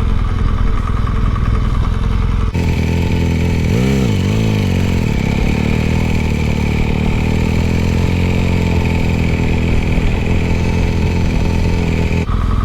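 Motorcycle engine running as the bike is ridden, with a brief rev up and back down about four seconds in. The sound changes abruptly about two and a half seconds in and again near the end.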